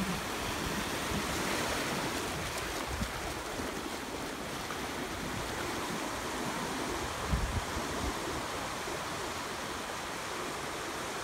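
Pacific Ocean surf washing on the shore: a steady rush of waves, with a brief low thump about seven seconds in.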